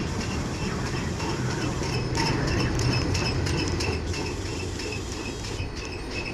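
Railroad flatcars rolling past at close range: a steady rumble of steel wheels on rail, with sharp clicks scattered through it and a faint high squeal.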